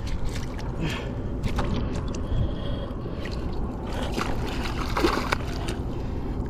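Water sloshing and splashing as a freshly caught bass is held in the pond water for release, with irregular splashes strongest past the middle, over a steady low rumble.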